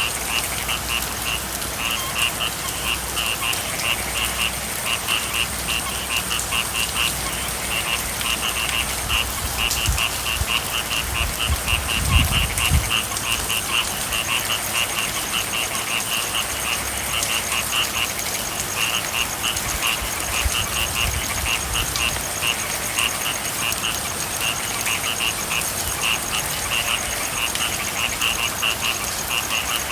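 A chorus of frogs calling in a steady run of rapid, evenly spaced pulses, several a second, over the hiss of falling rain. A low rumble rises briefly about twelve seconds in.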